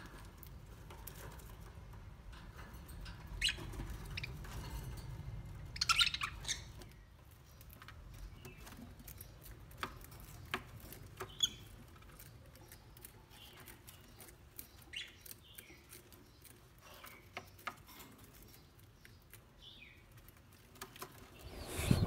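Small birds giving short, scattered chirps, with a brief flurry of several about six seconds in, over a faint low background rumble.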